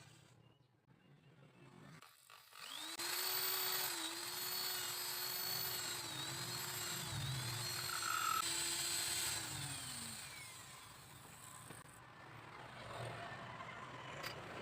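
Small electric power tool motor starting up and running steadily for about seven seconds, its pitch dipping briefly a few times under load, then winding down.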